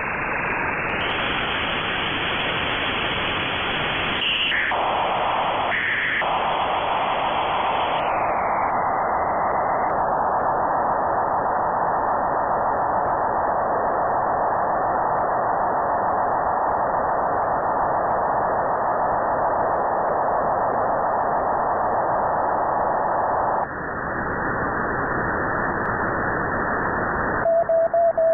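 Hiss from an RTL-SDR receiver tuned to the QO-100 satellite's amateur transponder in sideband mode, between stations, with two short blips around four and six seconds in. The hiss turns duller about eight seconds in, and near the end a steady tone comes in.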